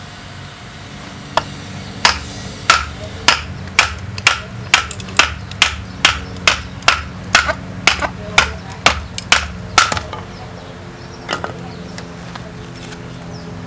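Flint and steel being struck again and again: about eighteen sharp, ringing strikes at roughly two a second, stopping about ten seconds in, with one more strike after a pause. A steady low hum runs underneath.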